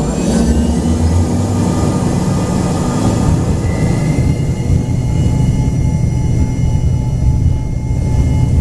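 Twin Rolls-Royce AE 3007 turbofans of an Embraer ERJ-135 heard from inside the cabin: a loud steady rumble with several thin whining tones over it, a higher whine coming in about halfway.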